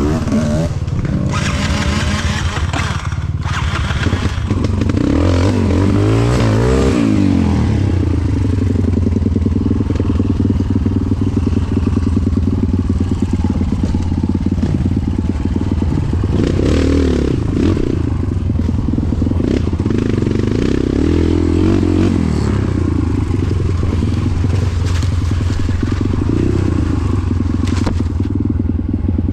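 Off-road Nissan 720 pickup's engine running under load, a steady low drone with the revs rising and falling about five seconds in, again around sixteen seconds and around twenty-one seconds.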